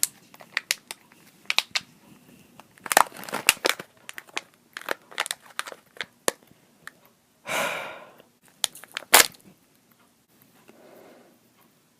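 Crinkly plastic packet of Puré lemon gummy candy being handled and opened: a run of sharp crackles, a longer tearing rip about seven and a half seconds in, then a sharp snap soon after.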